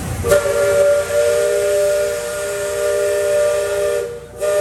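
Liberty Belle riverboat's steam whistle blowing a chord of several steady tones: one long blast of about four seconds, then a short second blast near the end.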